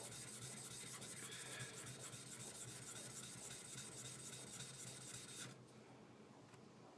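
High-speed steel skiving knife scraping back and forth on a sharpening stone, a steady rasping rub in quick, even strokes that stops about five and a half seconds in.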